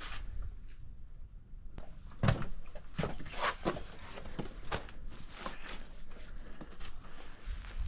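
A hiker's footsteps on snow and rock: irregular steps and scuffs, several a second at times, with the loudest step about two seconds in.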